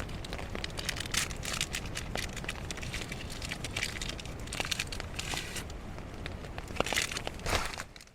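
Plastic packaging crinkling and rustling in irregular handfuls as someone rummages for a coffee bag, over a low rumble of wind on the microphone. The sound cuts off abruptly near the end.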